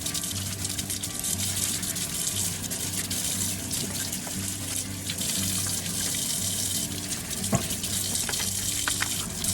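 Water running steadily from a tap, cutting off at the end, with faint background music underneath.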